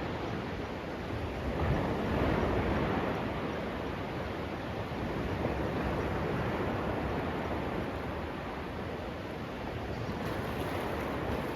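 Sea surf washing onto a sandy beach: a steady rush of waves, swelling a little about two seconds in.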